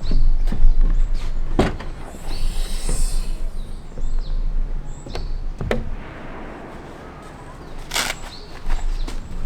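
Footsteps and irregular knocks and thuds of camping gear being handled, with a brief rustle about two seconds in and short bird chirps.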